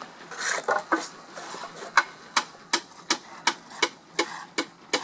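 Steady rhythmic hammer taps, about three sharp strikes a second, starting about two seconds in, with a few softer knocks before them.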